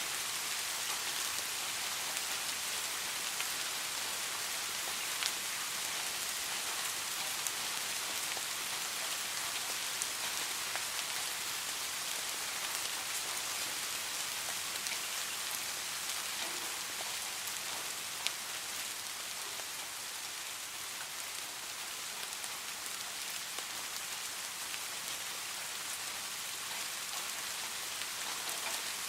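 Steady rain falling, a constant hiss with scattered sharper ticks of single drops striking a hard surface.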